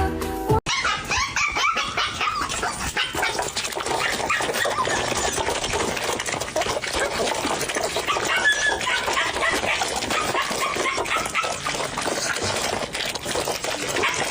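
A dog making many short, high calls in quick succession, over a busy noisy background; a snatch of music cuts off about half a second in before the dog sounds begin.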